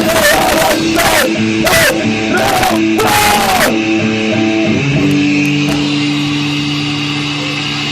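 Live band playing loud, distorted electric guitar with crashing drums and a bending, shouted-sounding voice for the first few seconds. About five seconds in the band stops and lets one guitar chord ring out steadily.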